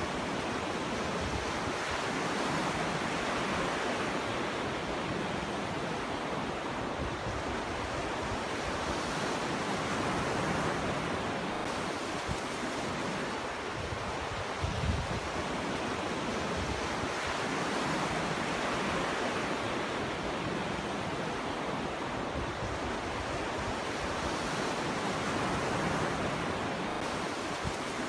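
Ocean waves breaking and washing up on a beach, a steady rush of surf that swells and eases every few seconds, with a brief low buffet of wind on the microphone about halfway through.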